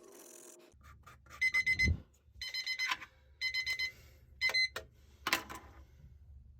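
Electronic timer alarm beeping in four quick bursts of rapid beeps, followed by a short sharp clack about five seconds in.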